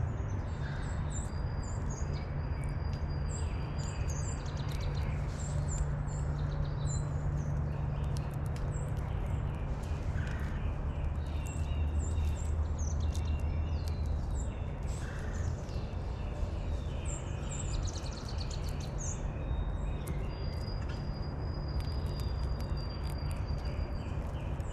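Small songbirds chirping and calling throughout, with short high chirps and twice a thin, high held note lasting a few seconds, over a steady low rumble of background noise.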